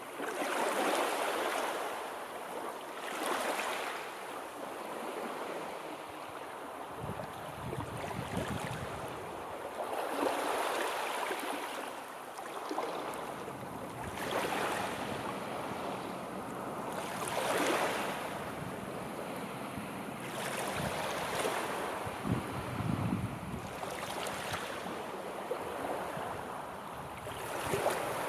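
Sea waves rolling in and washing back, in irregular surges every three to four seconds, with a few deeper, heavier swells.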